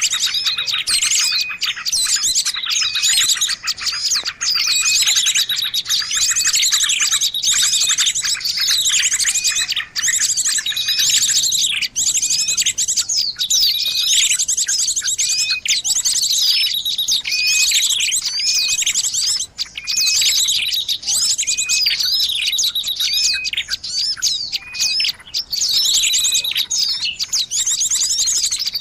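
A busy chorus of many small birds chirping and trilling at once, with quick falling whistles and a fast high trill repeating about every two seconds. It is a bird-lure recording meant to draw in birds of all kinds.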